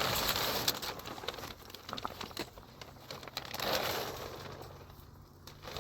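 Plastic sheeting rustling and crinkling as it is handled, with irregular small clicks and two louder swells of rustling, one near the start and one about four seconds in.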